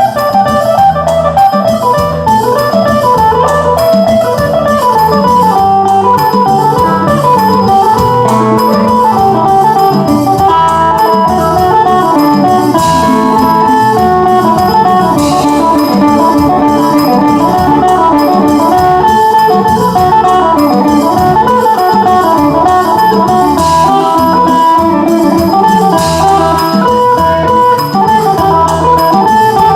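Isan phin, a plucked lute, playing a running melody over a steady beat.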